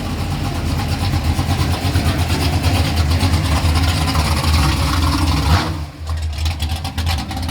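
Chevy Nova's engine running at low speed as the car rolls in, with a choppy, loping beat from the exhaust. The sound thins out for a moment about six seconds in.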